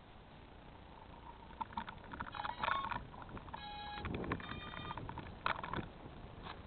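Scattered clicks and knocks of something being handled, with a brief run of short electronic beeps near the middle.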